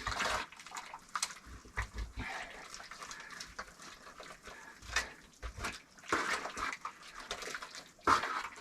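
Clay mortar being worked with water by hand: wet squelching and scraping, with scattered short knocks and clicks.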